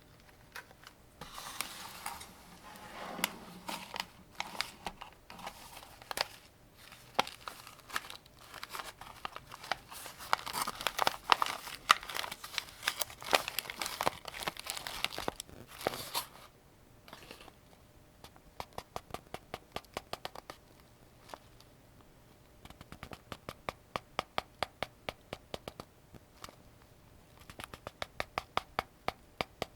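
Crinkling, rustling handling noise for roughly the first half, then three runs of quick, evenly spaced clicks from the 75-round AK-47 drum magazine's mechanism, each run lasting a few seconds.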